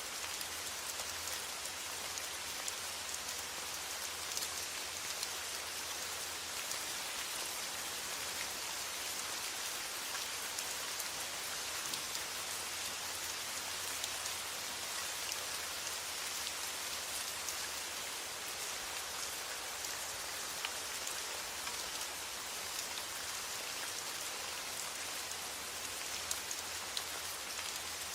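Steady rain falling, an even hiss with many small drop ticks and no change in intensity.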